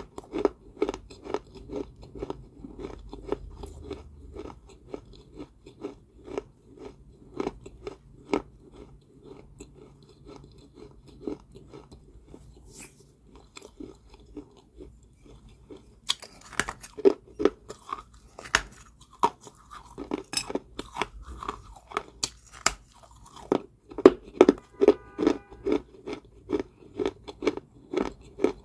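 Close-up chewing of crunchy balls of Georgia White clay: a steady run of crisp crunches and bites, fainter for a few seconds past the middle, then louder again.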